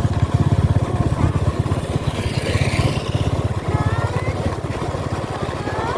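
Small motorcycle engine running with a steady, fast low pulse, easing off a little partway through.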